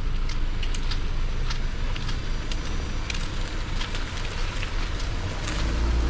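Rain falling, with many separate drop ticks and a crackling patter over a steady low rumble of traffic or wind.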